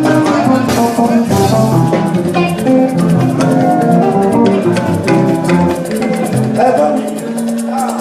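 Live church band playing a Yoruba gospel praise song, with drum kit, shakers and held melody notes running steadily.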